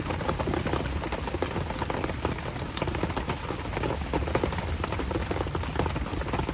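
Steady rain falling, with many irregular drops ticking on nearby surfaces.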